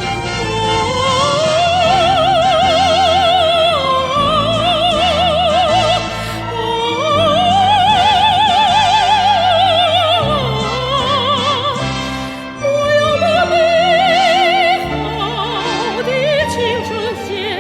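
Mezzo-soprano singing in classical operatic style, with long held notes and wide vibrato in phrases a few seconds long, over instrumental accompaniment.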